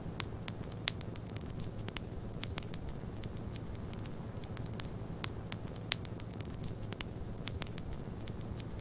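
Wood fire in a fireplace crackling, with irregular sharp pops (a few louder ones) over a steady low rumble.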